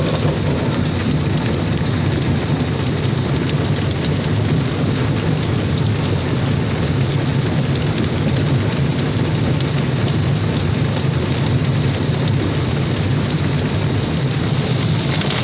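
Water spray from an in-bay automatic car wash hitting a car, a loud steady rushing wash of water that doesn't let up.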